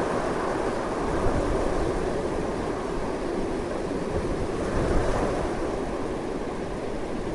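Strong wind blowing continuously: a steady, full rushing noise with a rumbling low end, swelling slightly in small gusts about a second in and again around five seconds in.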